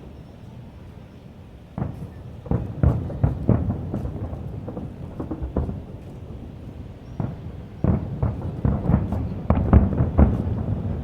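Aerial fireworks shells bursting in quick succession, each a deep boom with a rumbling tail. It starts with a short lull, then volleys follow from about two seconds in, with the densest run of bursts near the end.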